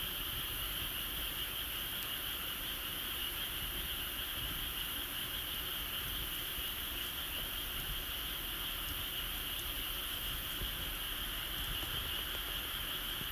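Steady, high-pitched chorus of calling insects or frogs, unbroken throughout, with a few faint ticks.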